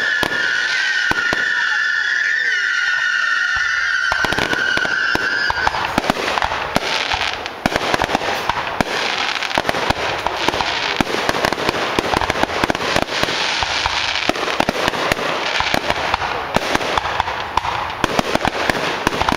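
Fireworks display: for about the first six seconds a high, wavering whistle sounds over scattered pops, then a dense barrage of bangs and crackling shell bursts in quick succession.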